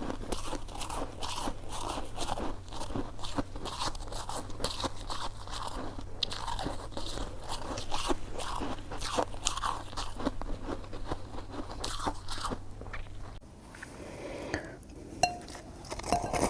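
Close-miked chewing and biting of soft, chewy coconut sticky rice cake, a dense run of small wet mouth clicks and smacks. About 13 seconds in it pauses to a few scattered clicks, then picks up again near the end.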